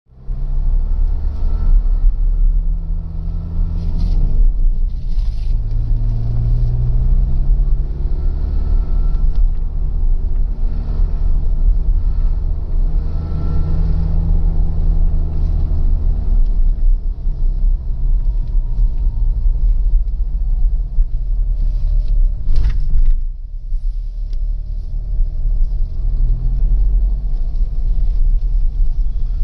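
Mahindra vehicle engine running with a deep rumble, its revs rising and falling several times. The owner reports an extra noise from the engine once it passes about 2000 rpm.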